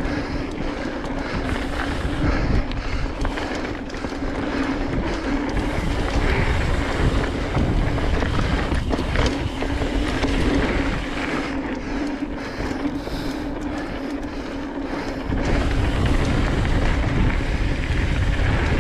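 Mountain bike rolling fast down a dirt trail: tyre and trail noise with a steady hum, and wind buffeting the microphone, growing heavier a few seconds before the end.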